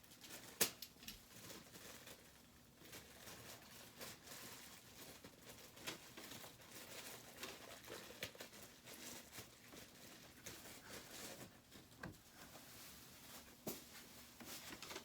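Faint handling noise of plastic air-conditioner parts being fitted: scattered light clicks and knocks with soft rustling in between.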